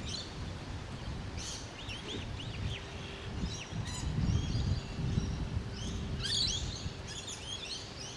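Birds chirping and calling: a string of short rising-and-falling chirps through the middle, becoming a busier flurry of calls near the end, over a low rumble of wind on the microphone.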